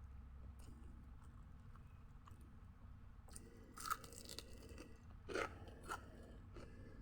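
A person chewing crunchy food close to the microphone, with a few sharp, loud crunching bites about three and a half to four and a half seconds in and again at about five and a half seconds.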